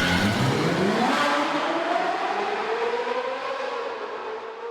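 Car engine accelerating, its pitch rising steadily as the sound gradually fades away.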